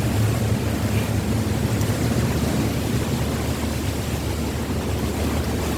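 Strong wind buffeting the microphone: a steady low rumble with a rushing hiss above it.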